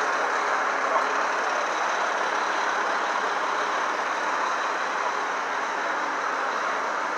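Heavy truck engines idling steadily amid city street traffic noise.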